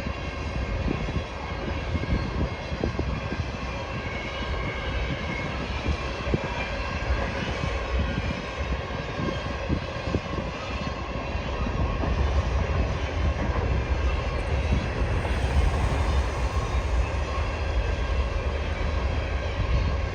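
Freight train cars rolling past: a steady low rumble of wheels on rail with irregular clicks and clanks, a little louder about two-thirds of the way through.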